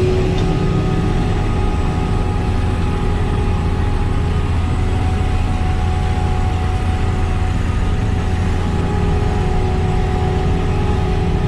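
Heavy diesel farm machinery running steadily at constant speed: a deep, unchanging engine drone with a few steady higher tones above it.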